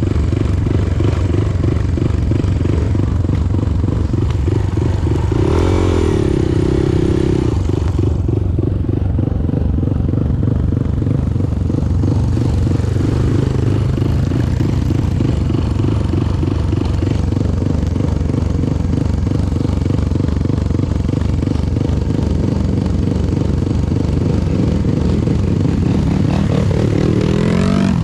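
Motorcycle engine running steadily as the bike is ridden off-road, revving up about six seconds in and again near the end.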